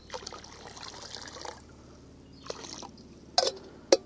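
Water being poured from a container, a pour of about a second and a half and then a shorter second pour, followed by two sharp knocks near the end.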